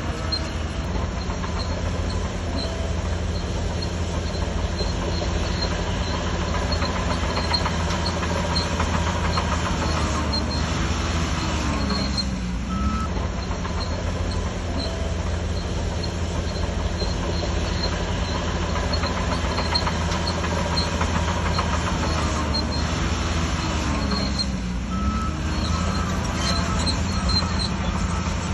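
Shantui DH17C3 crawler bulldozer's diesel engine running steadily under load, with a rapid high ticking over it. The engine note dips briefly and recovers twice, about 12 and 24 seconds in.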